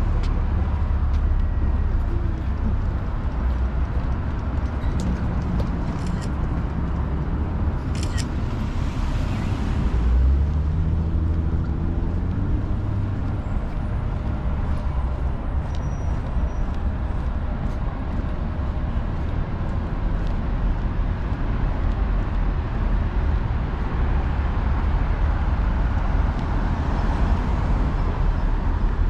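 City street ambience: a steady rumble of traffic with a few short clicks and a brief engine hum passing about a third of the way in.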